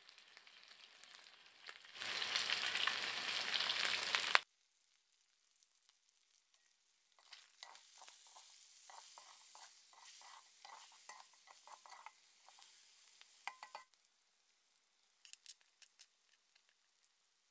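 Eel pieces and onions frying in oil in a metal kadai: a loud sizzle for about two seconds that cuts off abruptly. Later comes a run of quick spoon strokes, about two or three a second, scraping and stirring in the pan, then a few light clicks near the end.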